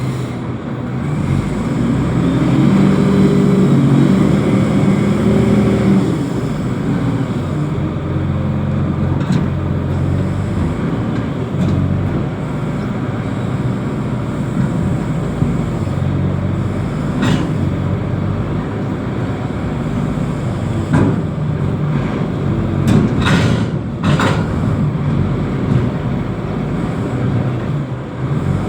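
Diesel engine of a reach stacker container handler running under varying load, its note rising and falling. A few sharp metallic knocks in the second half.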